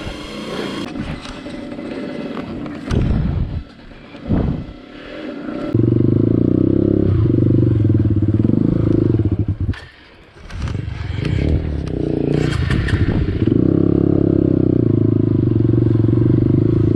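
Dirt bike engine, a Honda CRF150L single-cylinder four-stroke, on a slippery trail. It starts quietly with clatter and scrapes, then runs hard and steady from about six seconds in, drops off briefly near the ten-second mark and picks up again.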